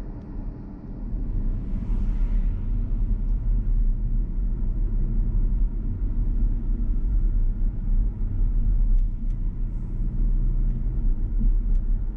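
Car driving, heard from inside the cabin: a steady low rumble of engine and road noise that grows louder about a second in as the car gathers speed.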